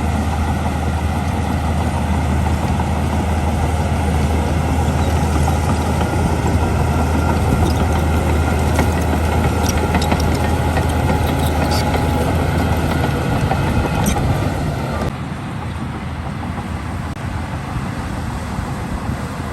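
Heavy construction machine's diesel engine running steadily with a deep hum and a few faint ticks. About fifteen seconds in the sound drops abruptly to a quieter, thinner engine noise.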